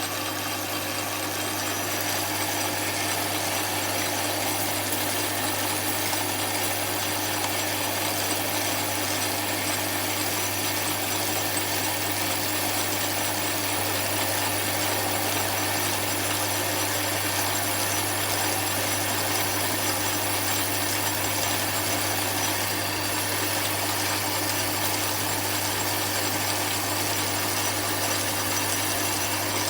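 Lathe running steadily under power: a constant low motor hum with an even mechanical whir over it, no change in speed.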